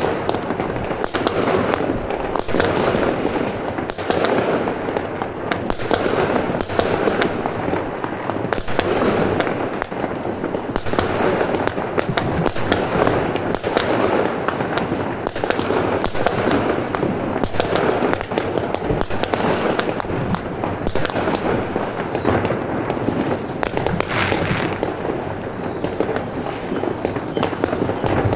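New Year's fireworks going off in a dense, unbroken barrage: many bangs and crackles overlapping with no pause.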